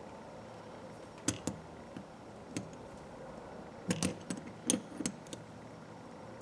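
Sharp metallic clicks and clinks from the small steel parts of a Craftsman 1/4-inch ratchet being handled and pried during disassembly. Two come about a second in and one near the middle, then a quick cluster of clicks follows in the second half, over a steady background hum.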